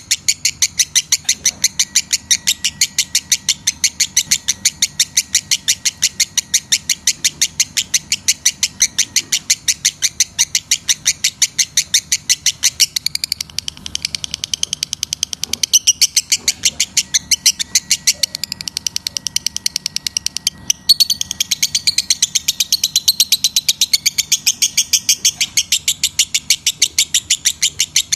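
Lovebird calling in breeding condition: a rapid, even string of high-pitched calls at about four a second, kept up without let-up except for a brief break about three-quarters of the way through.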